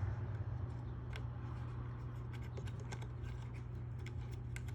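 Light, irregular metal clicks and ticks of bolts being refitted and tightened by hand on a Genie garage door opener's carriage and rail, growing busier in the second half, over a steady low hum.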